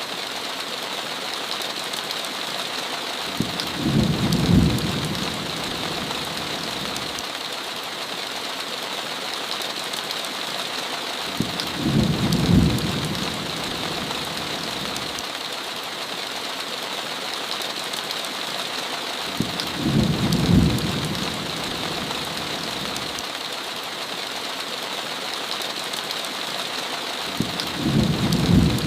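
Steady heavy rain, with a short low rumble of thunder four times, about every eight seconds.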